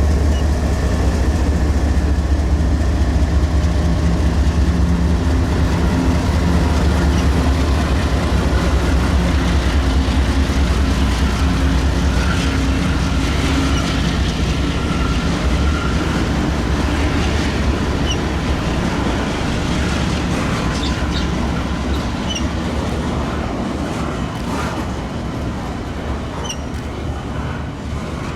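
Diesel-hauled train passing close by: a steady, loud low engine drone that slowly eases off, with small squeaks and clicks from the wheels in the second half.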